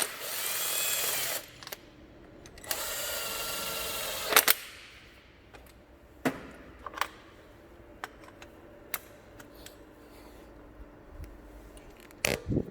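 A handheld power tool whirring in two bursts of about one and a half seconds each, followed by scattered clicks and knocks of tools on metal.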